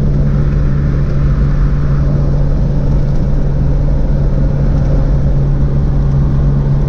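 Steady drone of a running vehicle engine, holding an even pitch.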